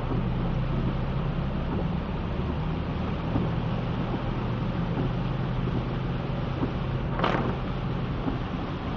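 Steady heavy rain, a constant rushing hiss with a low hum underneath. About seven seconds in there is one brief sharp swish.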